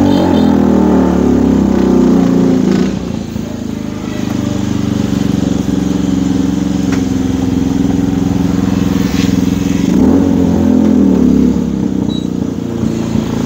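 Engine of a homemade Lamborghini-replica car running as the car is driven slowly over rough ground, the revs raised for the first three seconds and again about ten seconds in.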